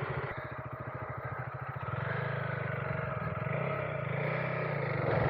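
Adventure motorcycle engine running at idle with small changes in revs.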